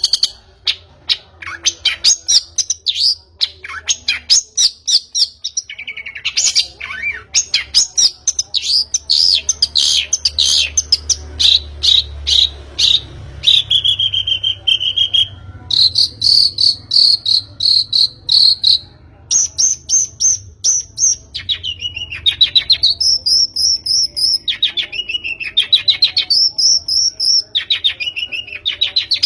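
Long-tailed shrike (pentet) singing a long, varied song of rapid repeated chattering notes, trills and whistled phrases that glide up and down in pitch, without pause.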